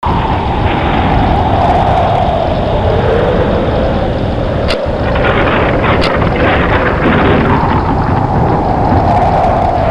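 Loud storm wind blowing in gusts, with a howl that slowly falls in pitch and swells again, and two sharp cracks a little past the middle.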